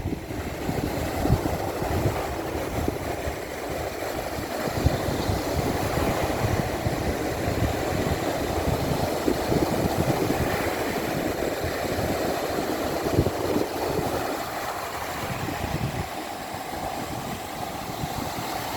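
Stormy sea waves surging and breaking, with wind buffeting the microphone in low, gusty rumbles.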